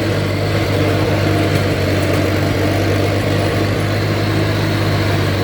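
Allis-Chalmers C tractor's four-cylinder gasoline engine running steadily while mowing, with the Woods mower deck's blades turning; a steady, even drone.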